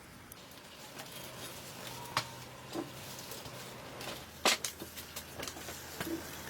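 Scattered light clicks and knocks, the sharpest about four and a half seconds in.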